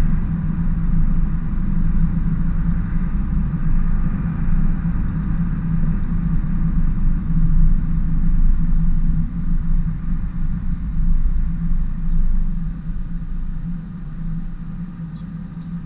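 Ford F-350 work truck driving along at a steady pace, with a low engine and road rumble that eases slightly near the end.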